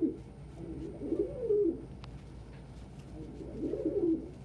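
Domestic pigeons cooing: two low coo phrases, each about a second long, rising and falling, one about a second in and one near the end.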